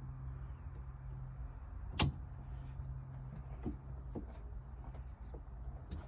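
Hand tools working on the harness bar's bolts: one sharp clink about two seconds in, then a few faint ticks, over a steady low hum.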